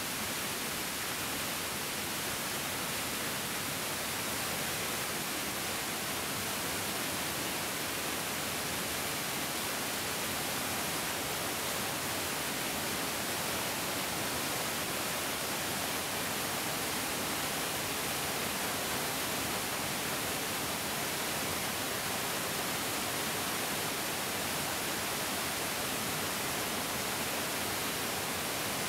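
Mountain stream rushing and splashing over rocks, a steady, even hiss of flowing water.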